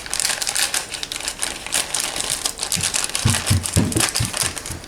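Scissors snipping open a plastic pancake-mix pouch: a run of quick, irregular clicks with the crackle of the pouch being handled.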